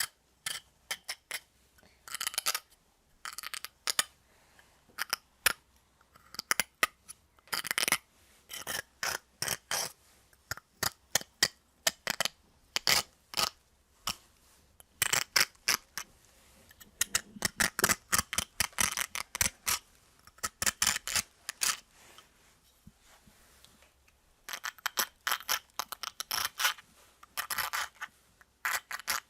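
A metal nail scraping and cutting into an icicle: irregular sharp scrapes, gritty crunches and clicks of metal on ice, some in quick runs of rasping strokes.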